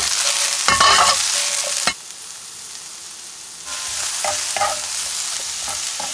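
A stir-fry sizzling in a frying pan while a utensil scrapes and stirs it. The sizzle is loud, drops suddenly about two seconds in, and picks back up with more stirring scrapes near four seconds.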